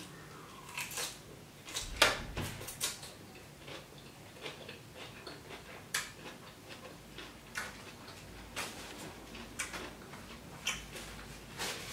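Close-up chewing of a mouthful of lettuce salad: irregular soft crunches and mouth clicks, the loudest about two seconds in.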